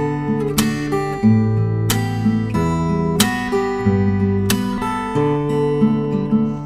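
Background music: strummed acoustic guitar chords, changing every second or so.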